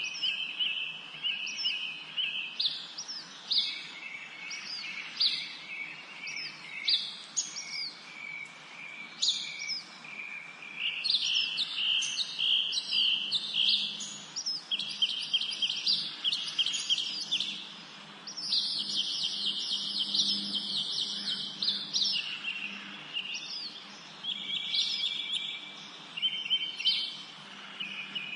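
Several songbirds singing and chirping at once: quick repeated chirps and short downward-sweeping whistled notes overlap, with a dense fast trill about two-thirds of the way through.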